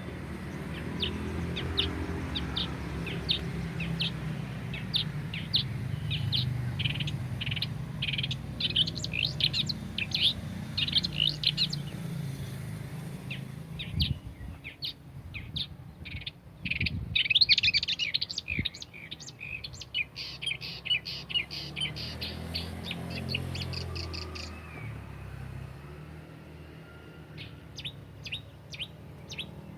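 Wild birds chirping in fast runs of short, high notes, with brief pauses between runs and a steady low rumble underneath.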